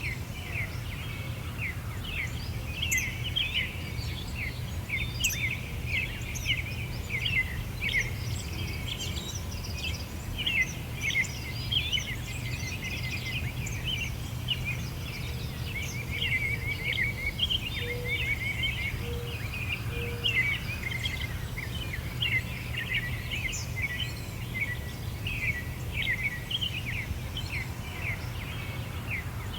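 Many small songbirds chirping and singing continually in quick, high, short notes, over a steady low rumble.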